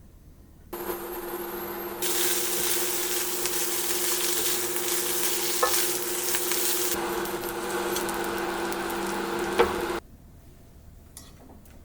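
Food sizzling as it fries in a pan, over a steady low hum. It starts about a second in, grows louder about two seconds in, and cuts off abruptly near the end.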